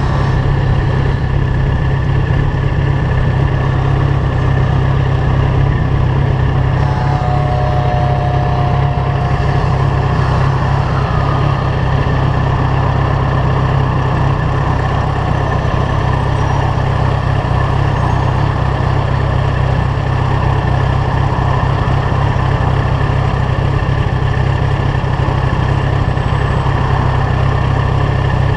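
Yamaha FZ1's inline-four engine idling steadily through a LeoVince GP-style aftermarket exhaust.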